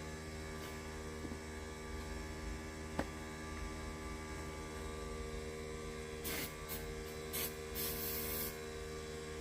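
A steady low hum throughout, with a small tick about three seconds in. From about six seconds in come several short hissing sprays, the last one the longest at just under a second, as the carburetor parts are cleaned.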